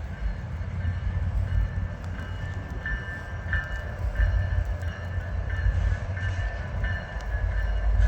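Freight train passing with a steady low rumble, a bell dinging repeatedly over it.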